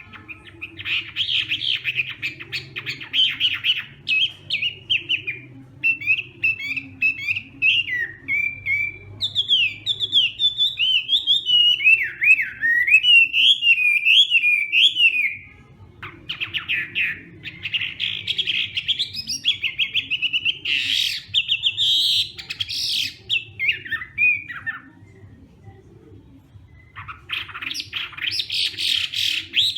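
Chinese hwamei singing a long, loud, varied song of rapid whistled and warbled phrases, breaking off briefly about halfway through and again for a couple of seconds near the end. A faint low hum runs underneath.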